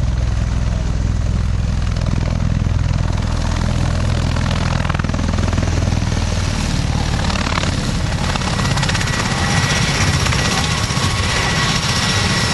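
Aircraft engine running overhead: a steady low drone, with a thin higher whine coming in during the last few seconds.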